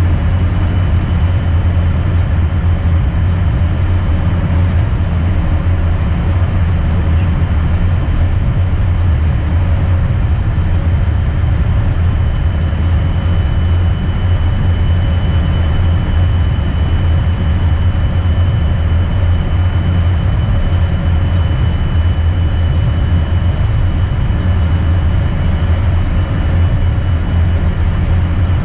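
Steady cockpit noise inside an Embraer Phenom twin-turbofan jet: an even low rumble of engines and airflow, with a faint steady high whine.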